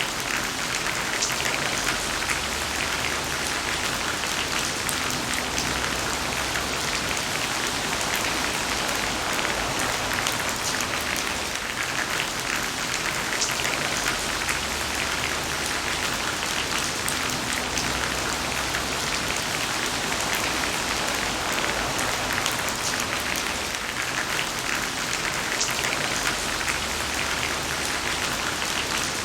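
Heavy rain falling steadily, a dense even hiss with many fine drop impacts.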